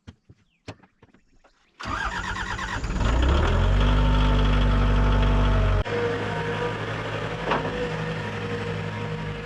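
A heavy machine's engine starts with a brief crank and catches about two seconds in, its pitch rising as it revs up. It runs loud and steady, then drops to a lower steady running speed about six seconds in.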